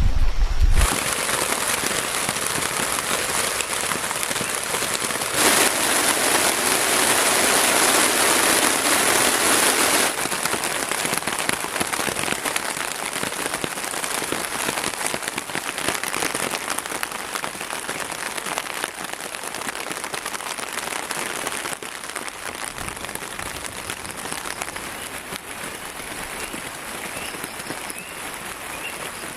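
Heavy rain pouring down in a dense, steady hiss, swelling for a few seconds and then easing slightly towards the end.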